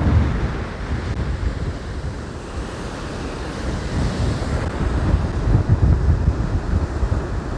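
Strong wind buffeting the microphone over the wash of storm surf. The wind eases a little for a couple of seconds mid-way, then gusts again near the end.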